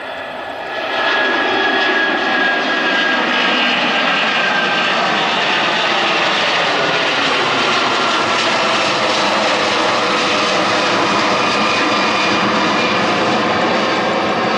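Jet airliner engines running loud close by, with a whining tone that glides slowly downward over the steady rush. It grows louder about a second in and then holds.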